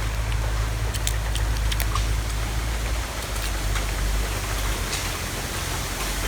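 Steady low rumble of wind buffeting the microphone, with scattered faint clicks.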